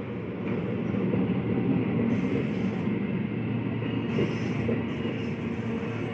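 Electric multiple unit (EMU) suburban local train running past on the adjacent track, a steady rumble of its wheels and coaches on the rails.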